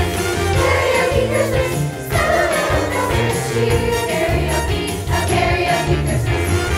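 A school chorus singing a Christmas song over an accompaniment, with jingle bells shaking in a steady beat.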